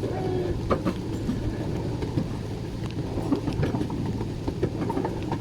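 Miniature railway train running along its track: a steady low rumble with scattered short clicks.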